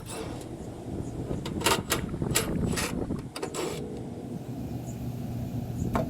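A few sharp metallic clicks and knocks from work on an outdoor air conditioner unit, bunched in the first four seconds, over a steady low rumble.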